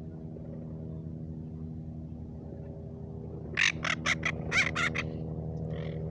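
Parrots squawking in alarm, a quick run of about six short, harsh calls bunched within a second and a half, over a steady low mechanical hum.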